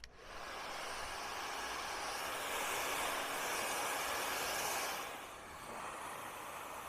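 Handheld hair dryer switching on and blowing a steady rushing hiss; it grows louder about two seconds in, then drops to a softer level about five seconds in.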